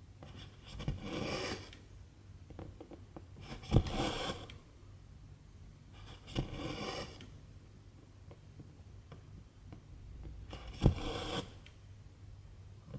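Silk embroidery thread drawn through 11-count cross-stitch fabric, four times: each a sharp click of the needle passing through, then a rasping pull of the thread lasting under a second.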